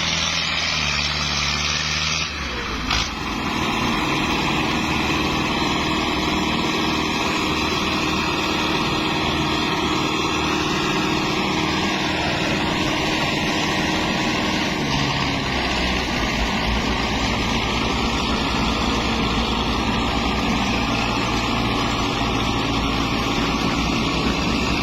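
Tractor engine running steadily, its note changing about two seconds in and dipping slightly in pitch around the middle.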